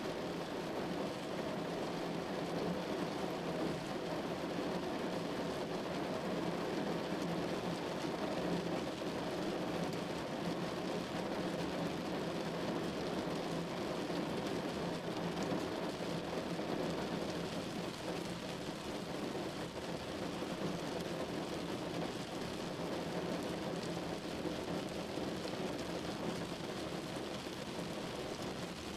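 Steady rain falling against a window pane, an even, unbroken hiss of drops.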